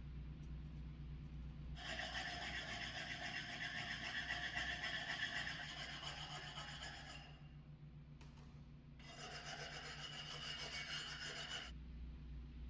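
Two spells of rasping from a tool working a hard surface, the first about five seconds long and the second nearly three, over a steady low hum.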